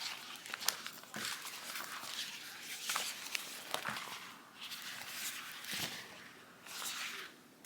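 Packaging being handled and unwrapped: irregular rustling bursts with small sharp clicks and taps in between.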